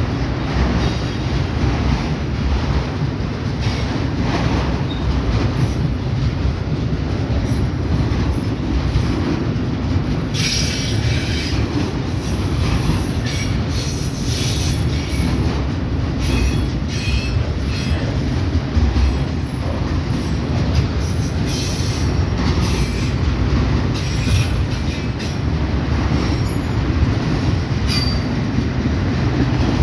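Kansas City Southern freight train cars rolling past with a steady heavy rumble. From about ten seconds in, intermittent high-pitched wheel screech and clatter come in over the rumble.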